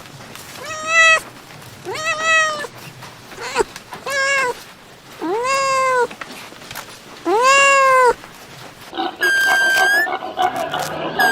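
Five drawn-out animal calls, each rising then falling in pitch and lasting about half a second to a second, followed near the end by a run of higher, steadier calls.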